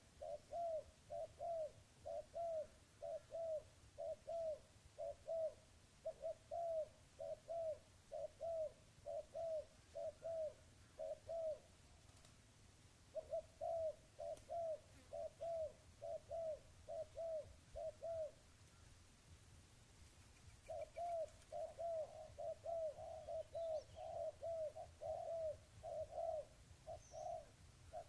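A dove cooing in long runs of short, quick coos, about two or three a second, with two brief pauses. Faint, high chirps of a small bird come in near the end.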